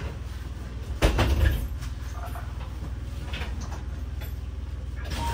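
Steady low hum of a stopped electric train's onboard equipment heard from inside the cab, with a few knocks about a second in and a short beep near the end.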